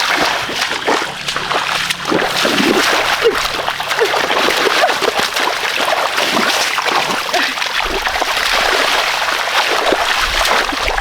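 Continuous irregular splashing and sloshing in shallow muddy water as fish are grabbed by hand.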